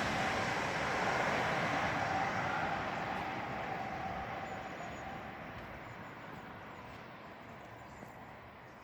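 A Great Western Railway Class 800 IET, a nine-car train running under electric power at speed, fading steadily away as it recedes after passing. A faint steady whine sounds in the first few seconds.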